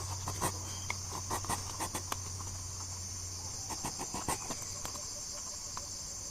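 Steady high-pitched drone of insects, with scattered light clicks and knocks.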